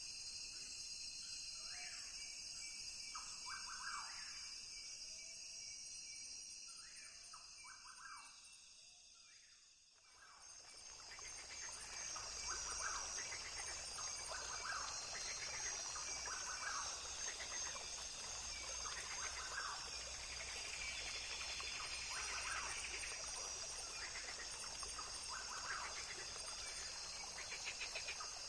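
Rainforest ambience: a steady high drone of insects with short chirping calls repeating every second or two. About ten seconds in it fades down and comes back fuller, with a low rumble underneath.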